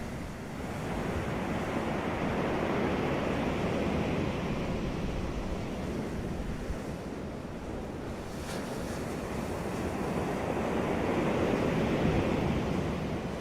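Surf on a beach: waves breaking and washing up the shore in two slow swells, the second near the end, with wind noise on the microphone.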